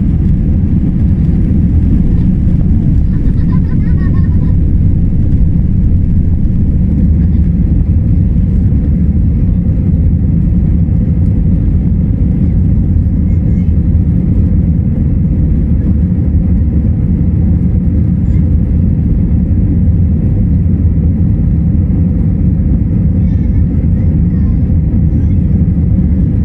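Steady low rumble of an Airbus A321's jet engines and airflow heard inside the passenger cabin, holding level without rising or falling.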